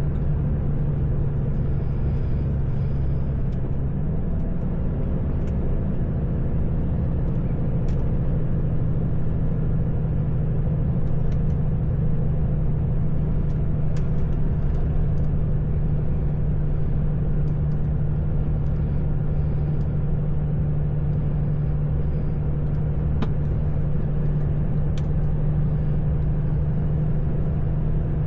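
Heavy truck's diesel engine running steadily under way, heard from inside the cab over low road rumble; the engine note steps up slightly about four seconds in.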